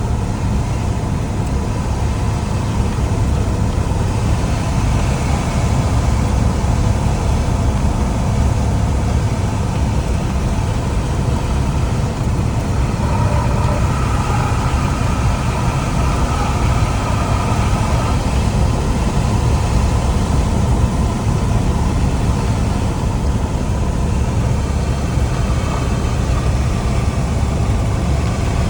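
Steady cabin noise of a light piston-engine airplane: engine, propeller and rushing air as heard inside the cockpit, a low rumble that holds even throughout.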